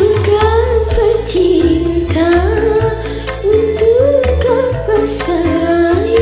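Karaoke singing over a backing track: one voice holds long notes that slide up into each phrase, over a steady beat and bass line.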